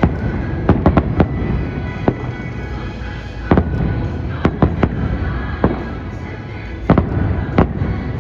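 Fireworks bursting in a dozen or so sharp bangs at uneven intervals, some in quick pairs, over show music playing throughout.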